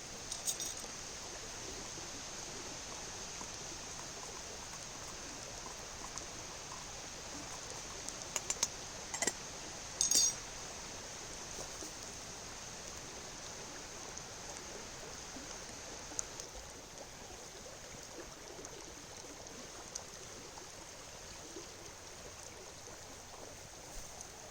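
Steady rushing of a river running high after rain. A few short sharp clicks and knocks break in about eight to ten seconds in.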